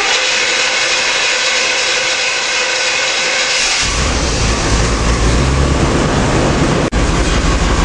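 Chevy plow truck engine running with its newly installed 700R4 automatic transmission, a steady loud whirring noise. About four seconds in, a deep low rumble joins it.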